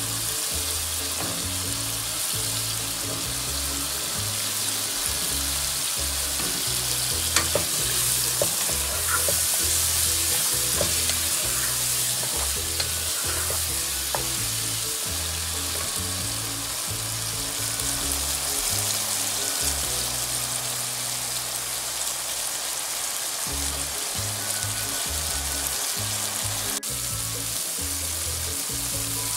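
Chopped potatoes sizzling in oil with a tomato and chilli masala in a pot, a steady hiss, stirred with a wooden spatula that scrapes and clicks against the pan now and then.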